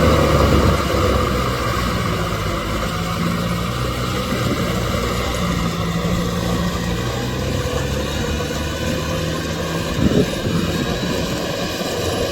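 Kubota M6040SU tractor's four-cylinder diesel engine running steadily while pulling a rotavator through a muddy field, with one brief knock about ten seconds in.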